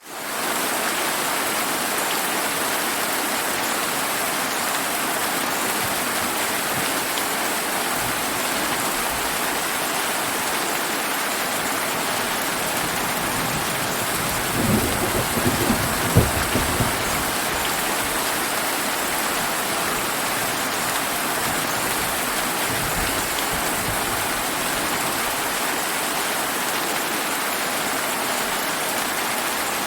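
Steady rain hiss fading in at the start. About halfway through comes a roll of thunder with sharp cracks, and a fainter low rumble of thunder follows a few seconds later.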